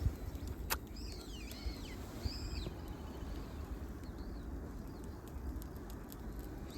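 A bird calling in short, high arching notes, a few times over the seconds, above a steady low rumble, with one sharp click just under a second in.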